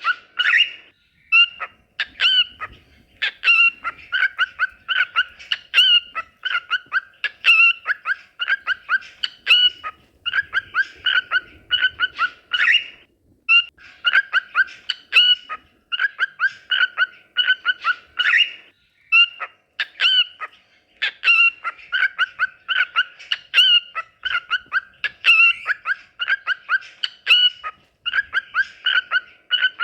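Cockatiel singing: quick runs of short, repeated chirps and whistles, in phrases broken by brief pauses.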